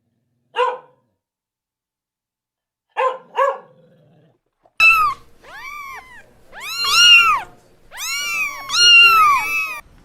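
A cat meowing. There are three short calls in the first few seconds, then from about halfway a run of longer meows that rise and fall in pitch.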